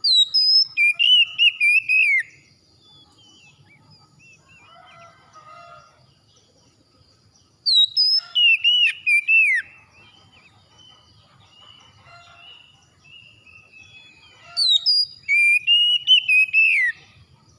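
Oriental magpie-robin song: the same loud phrase of clear whistled notes, sliding up and down, comes three times about seven seconds apart, with faint bird chirps in between.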